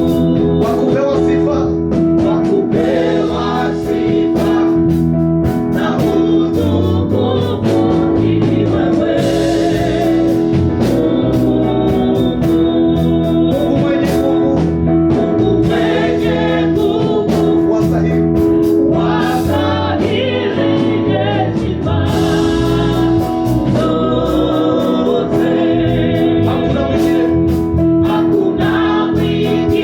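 Gospel praise-and-worship music: voices singing over a sustained organ chord, with a steady beat of drums.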